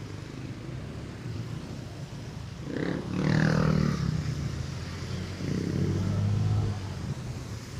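Street traffic with motor vehicle engines going by: a louder engine passes about three seconds in, its pitch falling, and a low engine drone swells again around six seconds.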